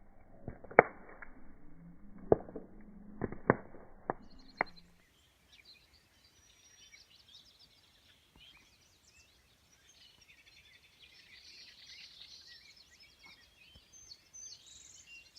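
Wood campfire crackling with several sharp pops over the first five seconds. It cuts off abruptly, and faint birdsong with scattered chirps follows.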